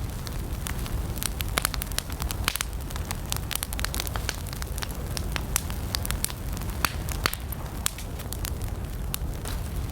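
Wood campfire burning, crackling with many sharp, irregular pops over a steady low rumble of the flames.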